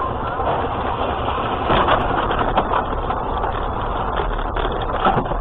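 Steady engine and road noise of a moving vehicle, with a few short knocks about two seconds in and again near the end.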